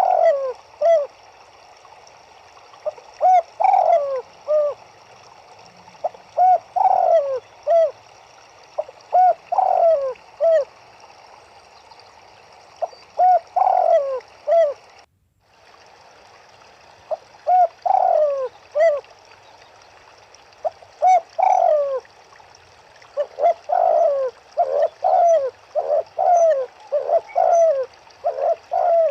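Turtledoves cooing in short phrases of three or four rounded notes, repeated every few seconds and coming faster and overlapping near the end. Under them runs a steady rush of river water. The sound cuts out for a moment about halfway through.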